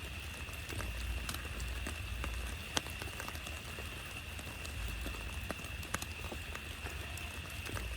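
Rain falling on a camping tarp, with many individual drops striking it at irregular intervals over a steady hiss. Underneath is a low rumble that swells and fades, along with a faint steady high-pitched tone.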